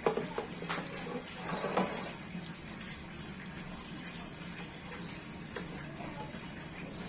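A few light knocks and clinks in the first two seconds, then a steady low background hum.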